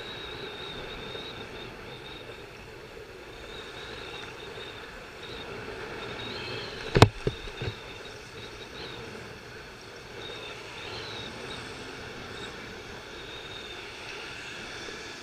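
Steady street and traffic noise with wind on the microphone. About seven seconds in there is one sharp knock, followed quickly by two smaller knocks.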